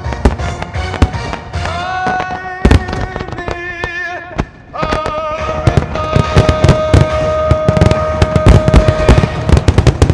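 Fireworks shells bursting in quick volleys over music with long, wavering held notes. The bangs thin out briefly just before the middle, then come thickest through the second half.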